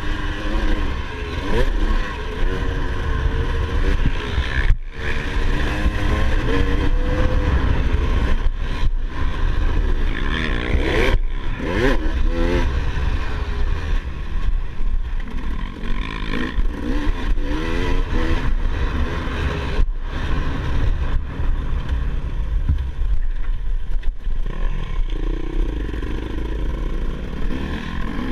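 Motocross dirt bike engine revving up and down repeatedly, with a heavy low rumble beneath it. The sound drops out for an instant about three times.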